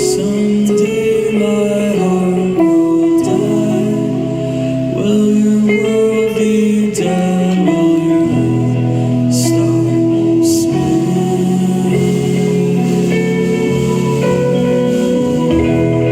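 Live band playing a song, with guitars holding long notes and a few sharp cymbal-like hits around the middle.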